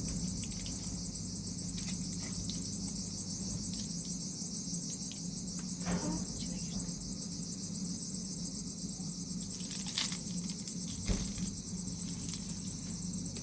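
Crickets chirping in a steady, pulsing chorus over a low steady hum, with a few faint knocks about six, ten and eleven seconds in.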